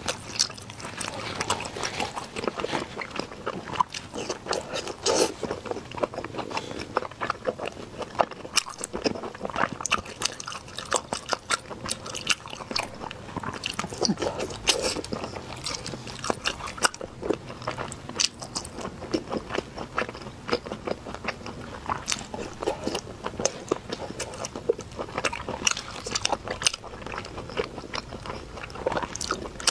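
Close-up chewing and biting of soft braised pork belly: a dense, irregular run of quick mouth clicks.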